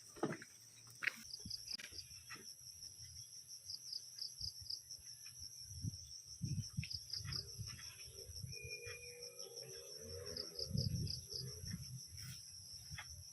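Insects chirping in a steady, rapid high-pitched pulsing trill, with faint low thumps underneath.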